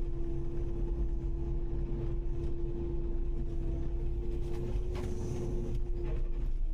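Kubota KX080-5 excavator's diesel engine running steadily: a low rumble with a steady hum held on one pitch above it.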